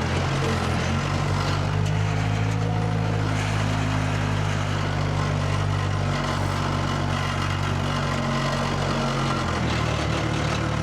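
Skid steer's engine running steadily under throttle, with a low, even engine note that eases slightly near the end.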